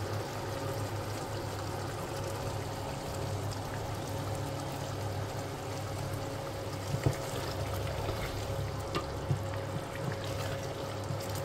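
Chicken pieces and masala sizzling and bubbling in a steel pot over a steady low hum, with a few short knocks of a wooden spatula on the pot about seven and nine seconds in.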